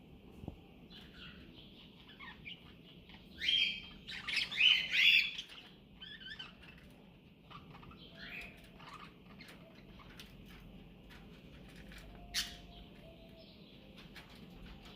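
Cockatiel chirping and calling over a steady background of chirps, with a burst of loud calls about four seconds in and one sharp call near the twelve-second mark.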